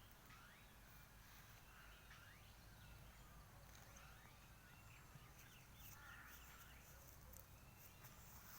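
Faint bird calls: short gliding chirps and whistles, with a quick run of them about five seconds in, over a low steady background noise.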